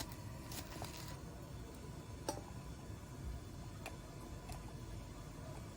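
A few scattered light clicks and taps over a low rumble.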